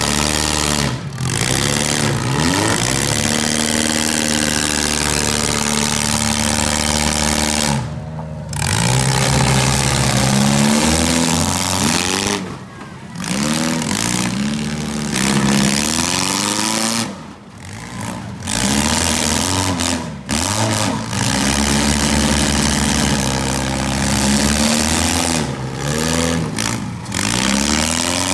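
Four-cylinder demolition derby cars' engines revving up and down again and again, with several brief drops in level.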